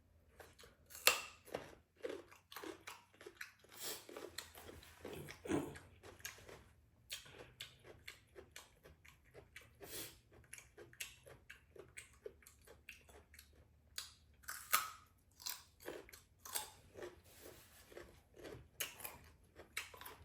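A person chewing and biting a mouthful of spicy noodles, with many short, irregular mouth noises close to the microphone.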